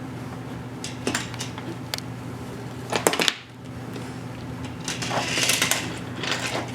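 Wooden toy trains being handled on a wooden track: scattered clicks and knocks, a louder clatter about three seconds in, and a brief scraping rustle near the end, over a steady low hum.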